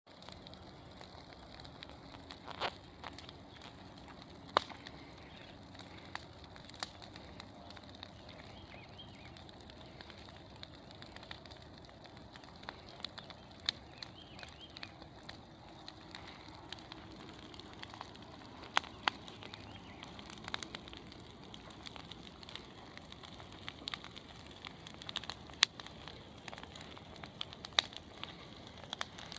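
Bonfire burning: a steady low rush of flame with sharp crackles and pops at irregular intervals.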